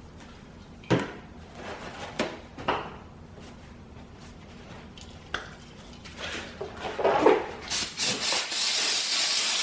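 Tools and objects knocking and clattering as they are set down and handled, then, about eight seconds in, the steady hiss of an aerosol can of brake cleaner spraying the sanded wheel.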